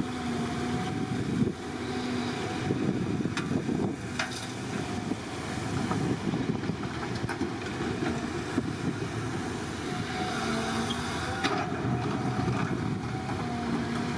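Excavator's diesel engine running steadily under load, its pitch coming and going in held tones, with a few sharp metallic knocks through it.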